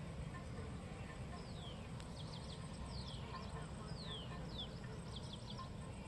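A bird calling: short whistles that fall in pitch, repeated every second or so, with two quick runs of short high notes in between, over a steady low background rumble.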